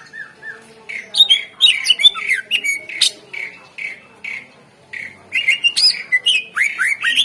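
Greater green leafbird (cucak ijo) singing a loud, fast, varied song of chirps, whistles and short falling notes. It comes in two dense bursts, one about a second in and another after a short pause about five seconds in, with a few evenly spaced single notes between them.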